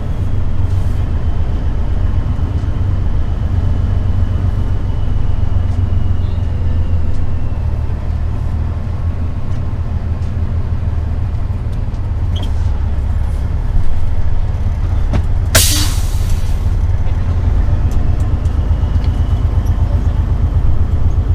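Semi truck's diesel engine running with a steady low rumble. About fifteen seconds in, a short loud hiss of air from the air brakes.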